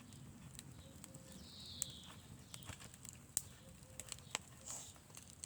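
Faint scattered clicks and snaps at irregular intervals, with a short high bird call about a second and a half in.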